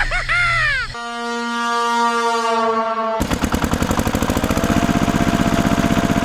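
A short wavering, rising-and-falling cry, then a steady horn note held for about two seconds, then a small engine chugging in a fast, even rhythm.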